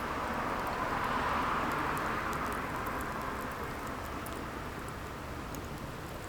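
Firewood burning: a steady soft rushing of the flames that swells and then eases, with scattered small crackles and pops.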